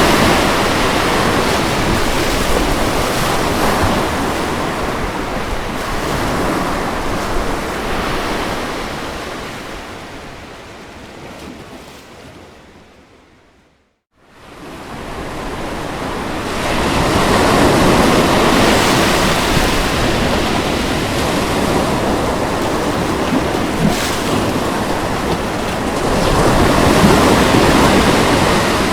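Ocean surf washing onto a beach, a steady rush of water that swells and ebbs with each wave. About halfway through it fades away to silence and comes back up over a couple of seconds.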